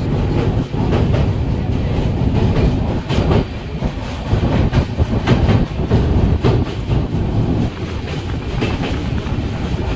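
Moving Duronto Express passenger train heard from on board, its wheels rumbling and clattering as it crosses the Vivekananda Setu, a steel rail bridge, with a dense run of sharp clacks.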